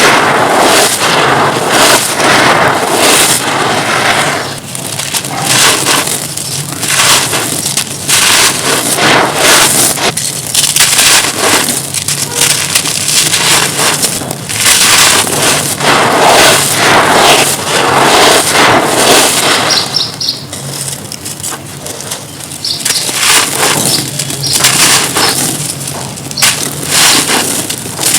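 Dry, dusty chunks of a stone- or cement-like material being crushed and crumbled by hand: a dense run of crunching and crackling, easing briefly twice before picking up again.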